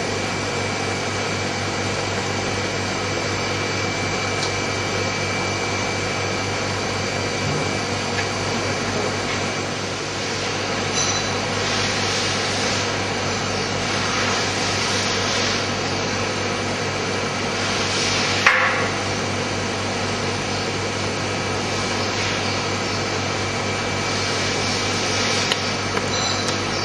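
CNC hot-wire polystyrene cutting machine running: a steady mechanical hum with several fixed tones. There are stretches of louder hiss from about 11 to 16 seconds and again near the end, and a single sharp click about 18 seconds in.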